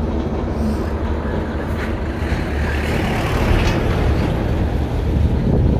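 Steady low rumble of a road vehicle driving at speed.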